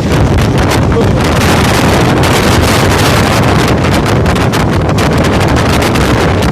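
Strong wind blowing hard across the microphone: a loud, unbroken rush with constant rapid buffeting.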